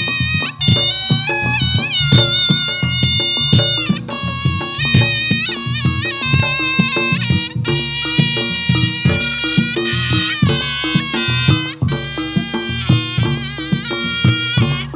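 Reog Ponorogo ensemble music: a slompret (Javanese shawm) plays a nasal, wavering melody over a fast, steady rhythm of kendang drum strokes and gong-chime beats.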